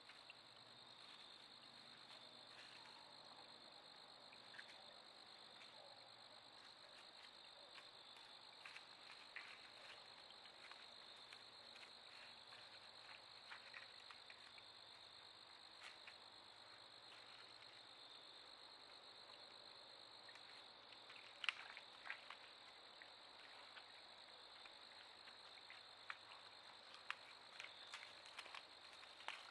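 Faint steady chirring of a cricket or insect chorus, with scattered soft clicks and a sharper pair of clicks a little past twenty seconds in.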